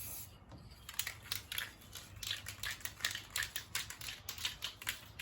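A brief hiss from an aerosol spray-paint can at the start, then a quick, irregular run of sharp clicks and crackles, several a second.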